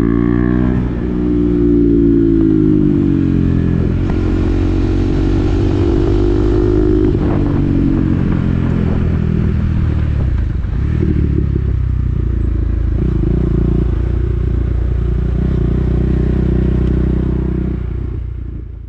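KTM Duke 390's single-cylinder engine running through an SC-Project aftermarket exhaust with the dB killer fitted, the revs rising and falling while riding. The sound fades out at the very end.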